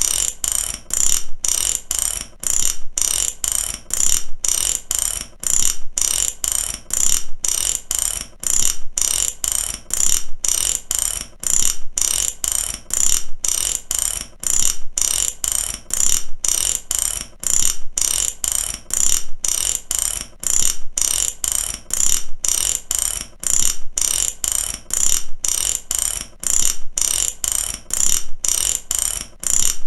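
Mechanical ratchet clicking as its pawl snaps over the teeth, in short repeated bursts about twice a second, steady and high-pitched.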